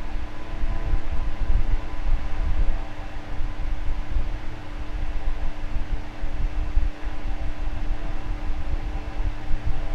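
Electric fan running steadily: a constant rush of air over a steady motor hum, with an unsteady low rumble underneath.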